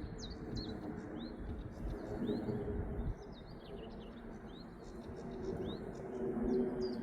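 Small birds chirping repeatedly in quick short notes over the low, steady drone of a distant aeroplane passing overhead.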